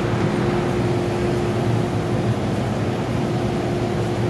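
Steady noise inside an MTR M-Train carriage: a constant hum with one steady droning tone running through it.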